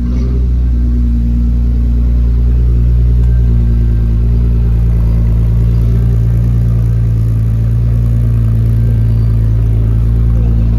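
A car engine running steadily at a low, even speed, its deep tone holding without revving up or down.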